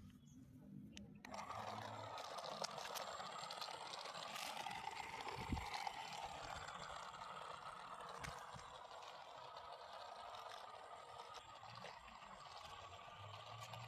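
Small DC motor spinning a toy propeller, switched on suddenly about a second in and then running with a faint, slightly wavering whine and hiss.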